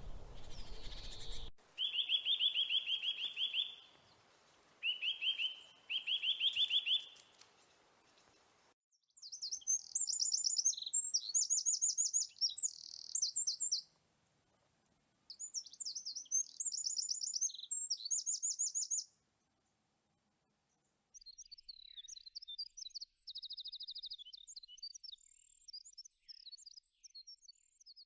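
Small birds singing in short, fast trills, phrase after phrase with pauses between; the later phrases are higher-pitched, and near the end the song turns into a jumble of varied chirps.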